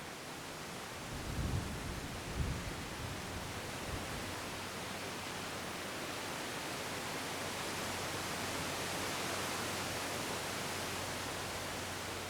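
Wind blowing, a steady rushing noise that swells gradually. Low gusts buffet the microphone about one and a half and two and a half seconds in.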